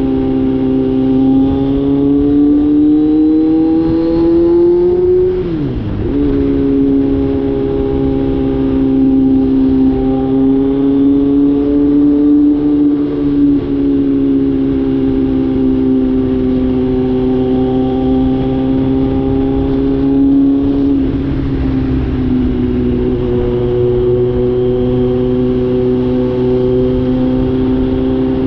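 Kawasaki Z900 inline-four engine under way, its exhaust louder for having the catalytic converter removed. The revs climb over the first few seconds, dip sharply and pick back up about five seconds in, then hold a fairly steady cruising note with slow rises and falls.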